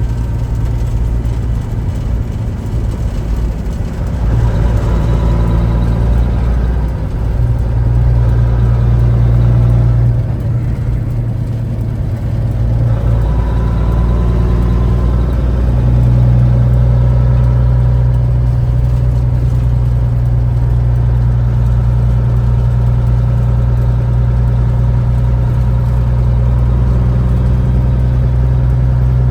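Peterbilt 379 semi truck's diesel engine running at low speed, its pitch shifting up and down a few times in the first half, then holding a steady drone.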